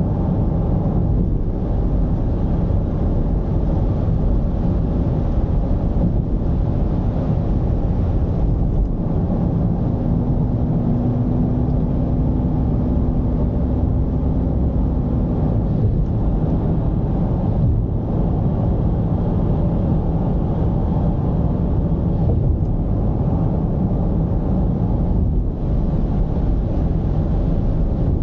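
Mercedes-Benz V220 diesel van on the move: a steady low rumble of diesel engine and road noise. A steady hum joins for about five seconds in the middle.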